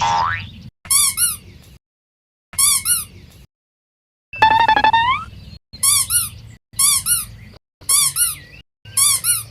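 Squeaky-toy style squeaks in short pairs, repeated about once a second, each burst cut off by silence. There is a rising whistle-like glide at the start and a longer wavering squeal that rises at its end about halfway through.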